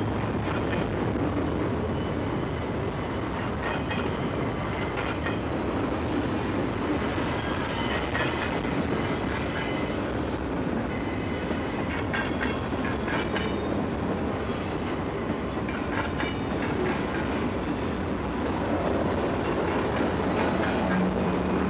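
Freight train of autorack cars and empty centerbeam flatcars rolling past at steady speed: a continuous rolling rumble, with clusters of clacks every few seconds as the wheels pass over the track.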